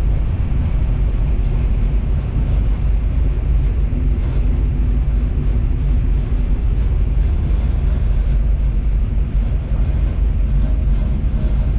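The small-block Chevy V8 of a 1964 Buick Special running steadily under way, heard from inside the cabin as a loud, even drone.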